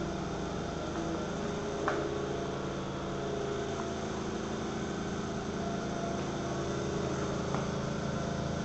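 Vytek FX2 laser cutter running: a steady machine hum with two faint clicks, about two seconds in and near the end.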